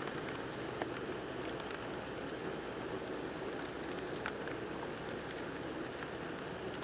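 Steady rain falling during a thunderstorm, an even hiss with scattered sharper drop ticks, a couple of them standing out about a second in and a little past four seconds.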